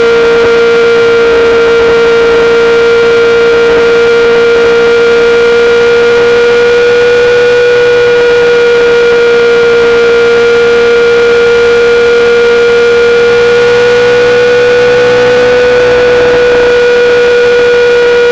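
2008 Yamaha R6's 600 cc inline-four through a full SC-Project exhaust, held at steady high revs: a loud, constant drone that wavers only slightly in pitch.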